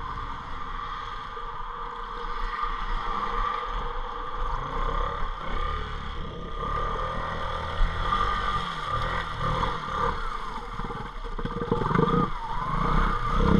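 ATV engine running at low speed in four-wheel drive as the quad wades slowly through deep floodwater, with water sloshing around it. The engine pitch rises and falls a few times near the end.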